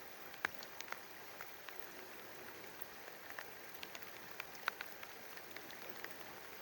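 Light rain: scattered raindrops tick sharply and irregularly close by over a faint, steady hiss.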